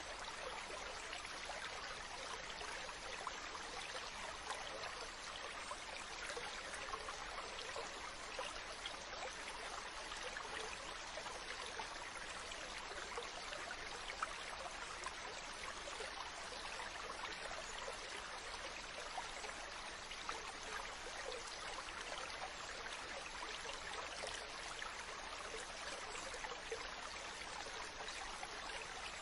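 Mountain stream running steadily, water splashing and gurgling over rocks with a constant rushing sound.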